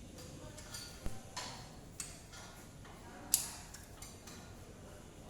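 Scattered metallic clinks and taps of hand tools and metal engine parts being handled, four or five strokes at uneven intervals, the sharpest a little past the middle.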